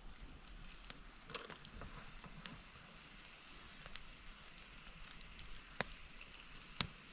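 Campfire crackling faintly, with irregular sharp pops over a soft hiss. The two loudest pops come near the end.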